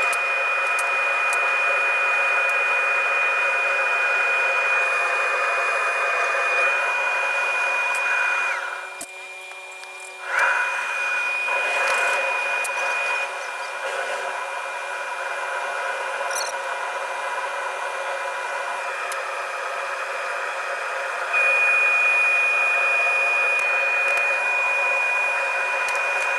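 A steady electric motor whine with a high held tone. It drops away about nine seconds in and comes back a second and a half later.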